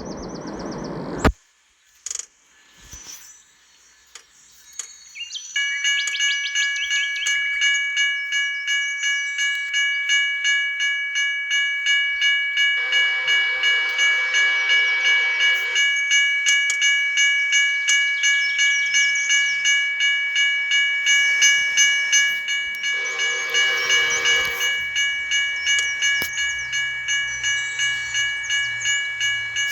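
A railroad grade crossing bell ringing steadily, about two strokes a second, starting about five seconds in. A locomotive horn sounds over it twice, a longer blast about halfway through and a shorter one later, and a faint diesel engine rumble comes in near the end as the train approaches.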